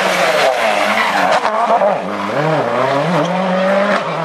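Rally car engine at high revs, its pitch dropping sharply about two seconds in and then climbing steadily again as it accelerates.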